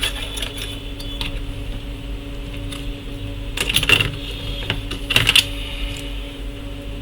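Light clicking and clattering of small hard objects, with two louder bursts about four and five seconds in, over a steady electrical hum.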